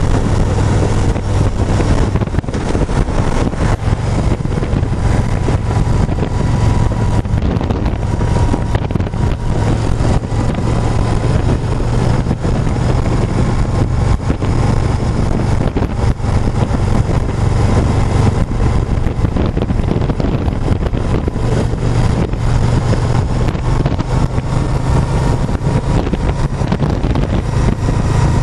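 Motorcycle riding at a steady speed: a low engine drone under heavy wind noise on the microphone.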